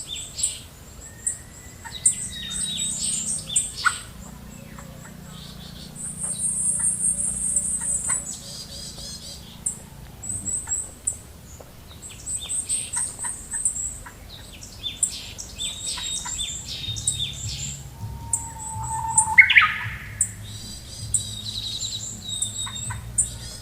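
Several birds chirping and calling, with short high chirps and rapid trills, and a short rising call near the end.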